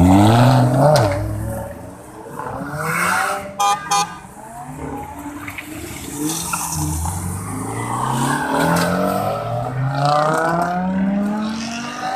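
Lamborghini Huracán's V10 revving hard as the car launches, then pulling away through a run of upshifts, each a rising sweep in pitch that drops back at the shift. Two short horn beeps about three and a half seconds in.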